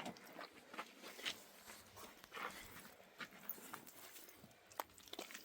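Faint, irregular scuffs and clicks of footsteps on rocky ground, one or two a second.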